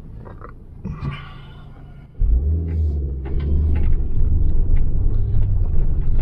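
Car engine starting about two seconds in, then running with a steady low rumble.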